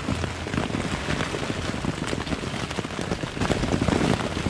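Rain falling on the fabric flysheet of a Polish Army lavvu tent, heard from inside: a dense, steady patter of drops.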